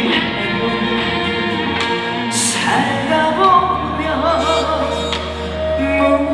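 Live trot band playing an instrumental break between sung verses: a wavering melodic lead line over the accompaniment, with a crash about two and a half seconds in.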